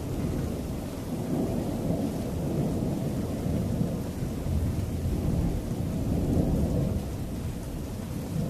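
Thunder from a weak storm rumbling low and continuously, swelling to its loudest a little past the middle and then easing, with rain falling.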